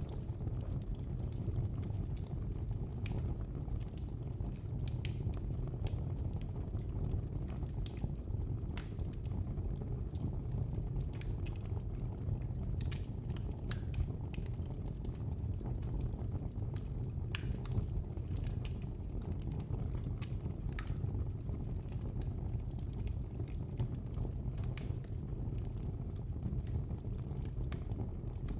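Wood fire burning in a fireplace: a steady low rumble of flames with frequent sharp crackles and pops scattered at irregular intervals.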